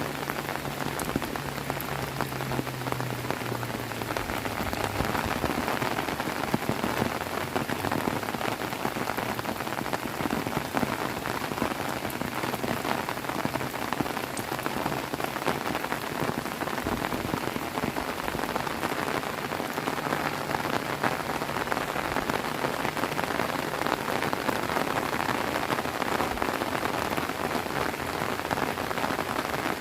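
Heavy rain pouring down steadily, a dense even hiss of drops on surfaces, with a faint low hum in the first few seconds.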